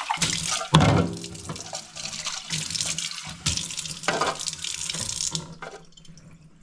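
Kitchen tap running as a part of the coffee maker is rinsed under it, with a loud knock about a second in and a few lighter knocks of the part against the sink; the water is turned off near the end.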